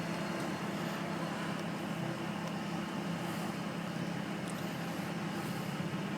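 A vehicle engine running steadily: an even, low hum that neither revs up nor dies away.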